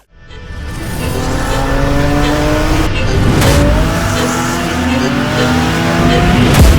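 Car engine under hard acceleration, fading in, its pitch climbing steadily, dropping at a gear change about three seconds in, then climbing again.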